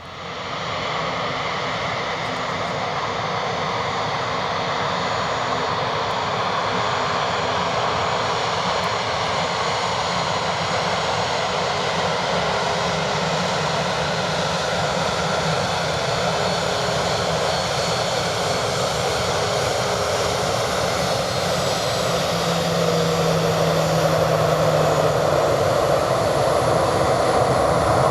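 Boeing 737-800's CFM56 jet engines running, a steady rushing roar that grows gradually louder, most noticeably in the last few seconds.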